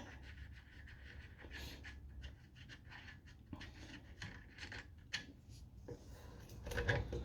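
Faint handling sounds from taking apart the air cleaner on a Honda GX110 engine: scattered light clicks and rubbing, a little louder near the end.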